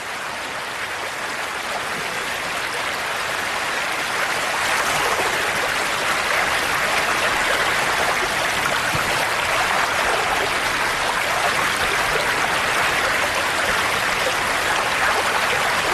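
Rushing river water at a falls, a steady even rush that grows a little louder over the first few seconds.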